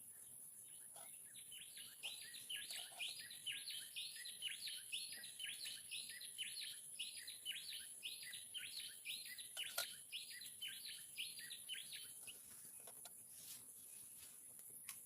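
A bird calling a long run of short, quick, downward-sliding chirps, about three a second, which starts about a second and a half in and stops about three seconds before the end. A faint, steady high-pitched whine runs underneath, and there is a single click near the end of the chirping.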